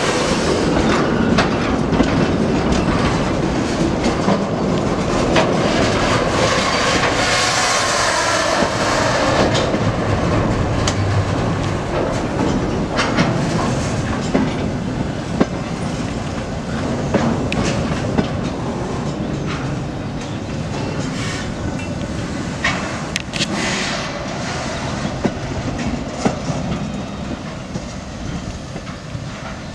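Freight wagons, flatcars and a tank car, rolling slowly past at close range: a steady rumble of wheels on rail with repeated clicks over the joints, slowly getting quieter toward the end as the last car moves away.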